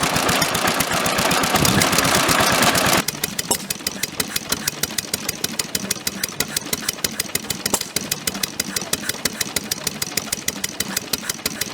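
Vintage stationary engines running. About three seconds in, a louder, busier engine sound changes abruptly to a quieter one with distinct, evenly spaced firing beats, several a second.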